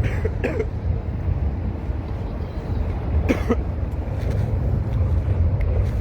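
A steady low outdoor rumble, with a person coughing twice: once right at the start and again about three seconds in.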